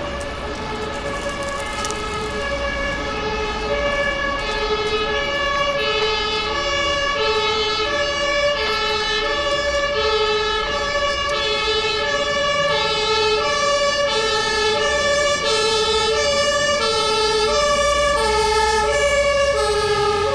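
Emergency vehicle's two-tone siren, the German Martinshorn, alternating evenly between a high and a low note and getting louder as it approaches over street traffic.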